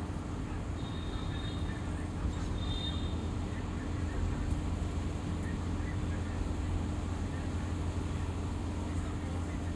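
A steady low rumble, with two brief high chirps about one and three seconds in.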